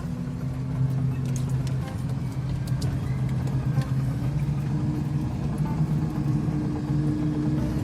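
A farm vehicle's engine running steadily under load, its note rising slightly about halfway through.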